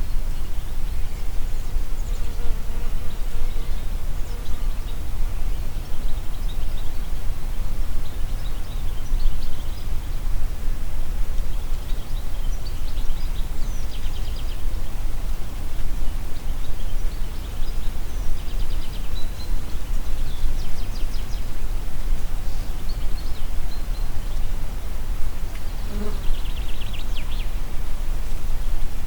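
Wind in the forest trees, with a steady low rumble of wind on the microphone, and songbirds calling in the background with short, rapid trills every few seconds.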